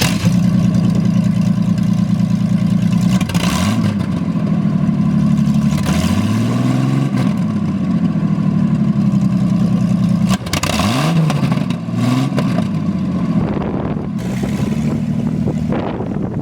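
1968 GM 250 cubic inch inline six running through open dual headers with no mufflers, pulling on the road; its pitch drops and climbs again several times. Wind buffets the microphone.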